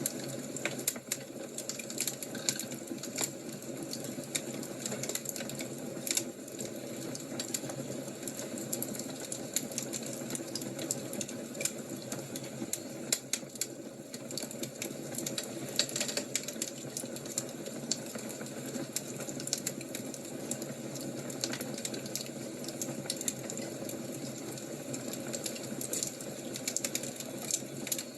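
Wood fire crackling: a steady low rushing bed with frequent, irregular sharp snaps and pops.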